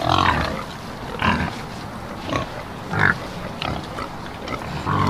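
A piglet grunting: a string of short grunts, about one a second.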